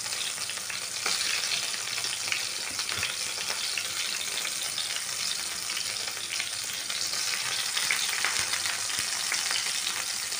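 Halved tomatoes frying in hot oil in a kadai, a steady sizzle and crackle, with a few faint taps along the way.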